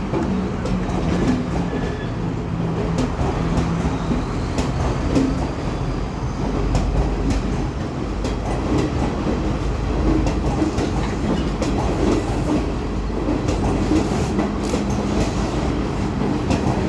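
Diesel train moving along the track, wheels clattering over the rail joints over a steady engine hum.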